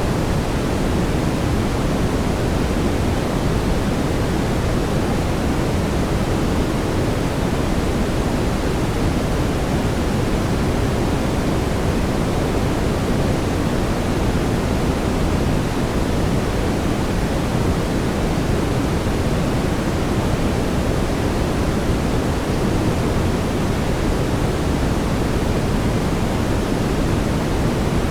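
Steady brown noise: an even, deep rushing hiss, strongest in the low end, that doesn't change.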